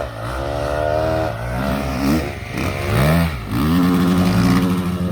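Dirt bike engine running at high revs; its pitch drops and climbs again a couple of times, then holds steady.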